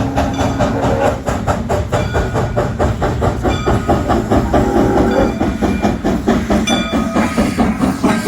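Steam locomotive running at speed, its exhaust beats coming fast and even, about five a second, over steam hiss and rail noise.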